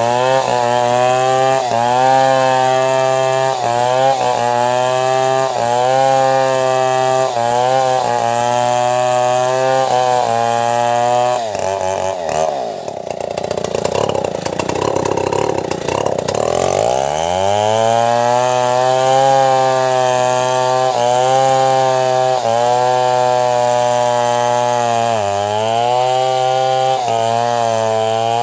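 Two-stroke chainsaw running at high revs, ripping timber into boards, its note dipping slightly every second or so. About twelve seconds in it drops toward idle, then revs back up about five seconds later and keeps cutting.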